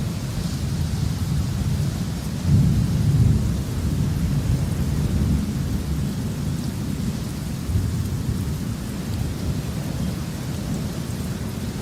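Thunderstorm: continuous low rolling thunder over steady rain, with the thunder swelling louder a few seconds in.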